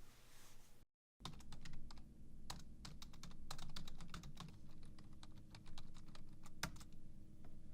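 Typing on a keyboard: a run of irregular clicking keystrokes, starting after a brief cut to silence about a second in, over a faint steady hum.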